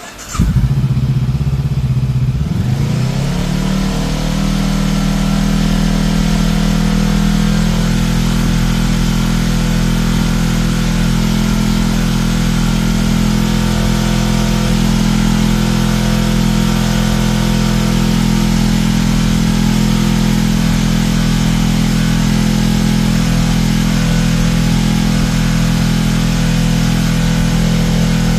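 2024 Honda CBR500R's parallel-twin engine starting through an Akrapovic slip-on exhaust, catching at once; its note settles within the first few seconds and then it idles steadily.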